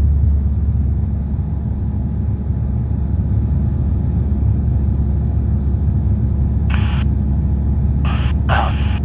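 Single-engine Cessna's piston engine and propeller droning steadily in cruise, heard in the cabin. Near the end there are three short bursts of hiss.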